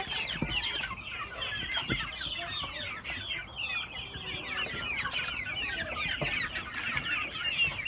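A flock of young Sonali chickens calling together: a steady chorus of many overlapping short, high clucks and peeps.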